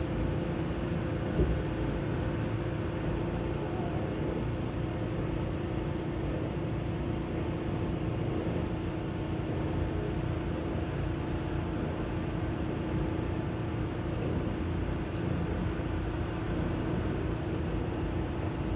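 Onboard running noise of a Seibu 6000 series electric train: a steady rumble of wheels on rail with a constant hum. One short knock comes about a second and a half in.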